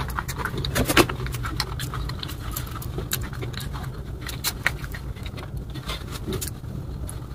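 Close-miked chewing of crunchy rolls: a steady run of sharp crackles and crunches over a low steady hum.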